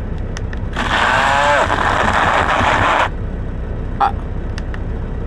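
Rechargeable portable blender running for about two seconds, its whir sagging in pitch, then cutting out suddenly: its battery is low on charge. A steady low rumble runs underneath, with a click near the end.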